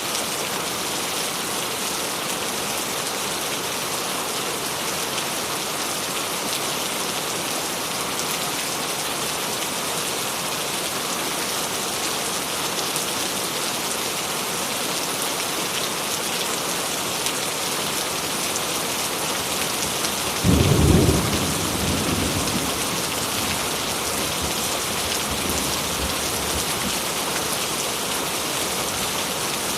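Steady rain falling, with a single thunderclap about two-thirds of the way through that rumbles away over a few seconds.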